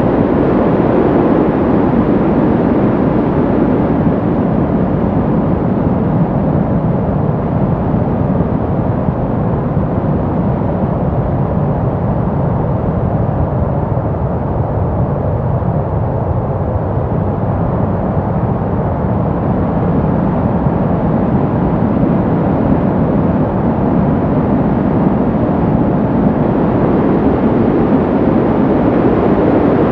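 Steady brown noise: a deep, even hiss weighted to the low end. Its tone slowly darkens toward the middle and fills back out.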